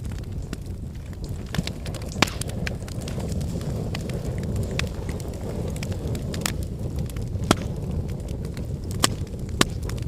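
An open cooking fire burning with a steady low rush, with sharp crackles and pops at irregular moments, the loudest a little after two seconds in and about halfway through.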